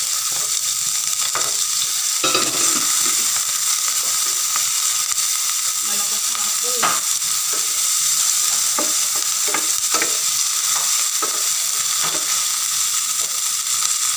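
Chopped onion and garlic sizzling steadily in rendered pork fat in a stainless steel frying pan, sautéing. From about two seconds in, a wooden spatula stirring them scrapes and taps against the pan again and again.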